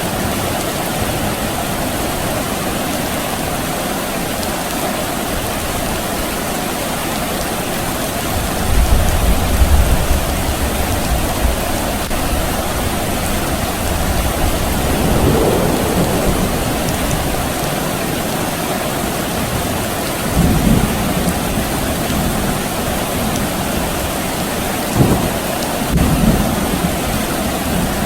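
Steady rain, with distant thunder rumbling low several times.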